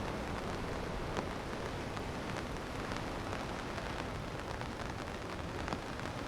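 Steady rain falling, with single drops ticking sharply close by now and then.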